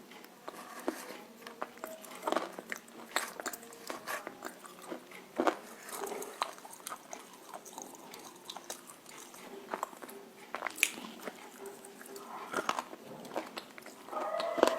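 Roasted clay chunks being bitten and chewed: sharp, irregular crunches and crackles in the mouth. A pitched whine, like a dog's, starts near the end.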